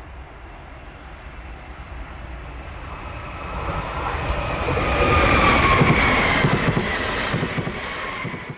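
Train approaching and passing at speed: a rising rush that peaks about five seconds in, with a whine that falls in pitch as it goes by and rapid rumbling from the wheels on the rails. The sound cuts off suddenly at the end.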